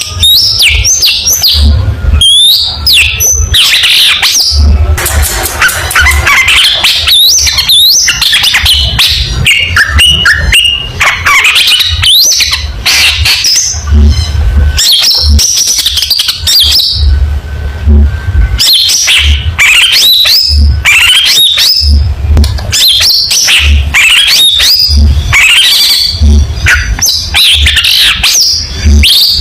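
Long-tailed shrike (cendet) singing continuously in fast, varied bursts of sharp chirps, harsh notes and quick whistled glides. Repeated low rumbles sit underneath.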